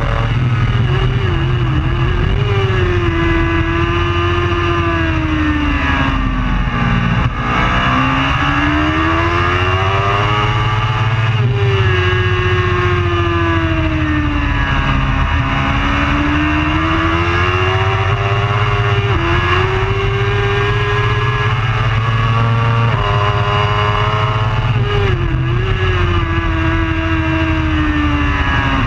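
A superbike racing motorcycle's engine is running hard. Its pitch rises over several seconds as it accelerates, then falls back, several times over, with a few abrupt pitch jumps at gear changes.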